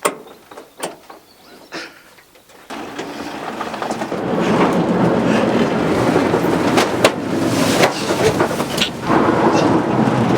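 A few clicks and knocks, then from about three seconds in a loud, steady rushing rumble of a moving vehicle, road and wind noise.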